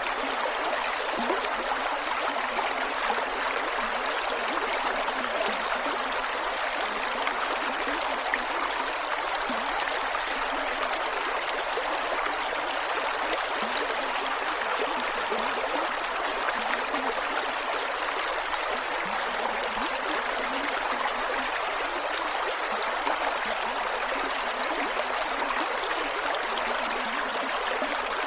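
A creek flowing steadily over rocks: an even rush of water with small gurgles and trickles throughout.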